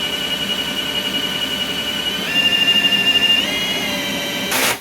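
Milwaukee M18 Fuel hammer drill spinning a Flexshaft drain-cleaning cable in a sewer line, its motor giving a steady high whine. The whine steps up in pitch and gets louder a little past two seconds in, then eases back down. Near the end there is a short burst of noise, and the drill cuts off sharply.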